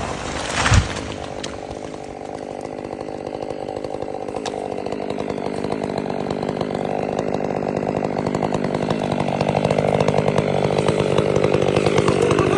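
Two-stroke chainsaw running steadily while felling a tree, growing gradually louder; a single sharp thump about a second in.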